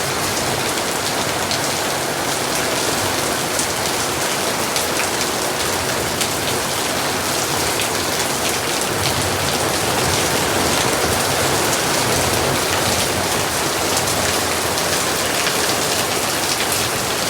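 Heavy rain falling steadily, a dense patter of drops on hard surfaces.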